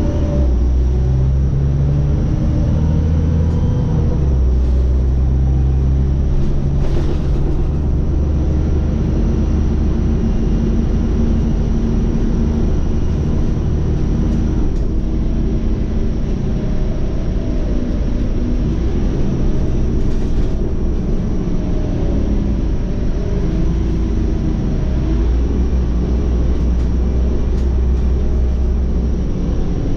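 Scania OmniCity city bus under way: a steady low engine drone with road rumble, its engine note rising and falling as the bus changes speed.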